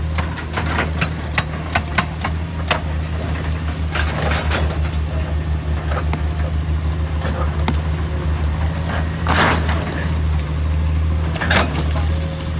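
JCB excavator's diesel engine running steadily. A quick run of sharp knocks comes in the first three seconds, then several louder crunching, scraping bursts as rock is worked.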